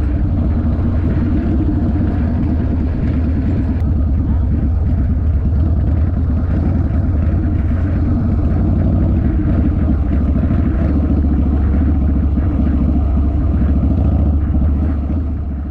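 Harley-Davidson V-twin motorcycle engine running steadily under way, a loud constant low rumble with a fast pulse.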